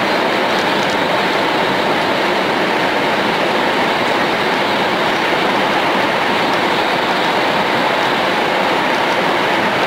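Tohoku Shinkansen train running at speed: a loud, steady rushing noise without letup.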